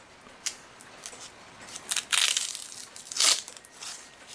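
Paper crinkling and rustling as an old cuckoo clock bellows with a worn, ripped paper cover is handled, with two louder rustles in the second half.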